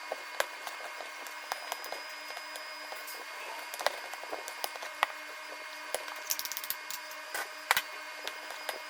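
Cooking sounds: irregular sharp clicks and crackles, some in quick clusters, over a steady hum.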